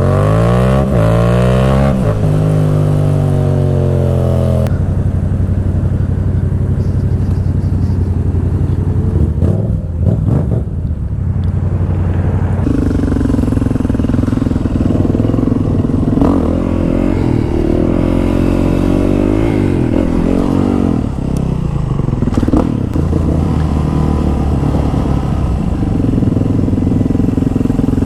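Motorcycle engine under way, revving up and falling back several times through gear changes in the first few seconds, then running at a steadier pitch. The note rises to a higher steady level about halfway through.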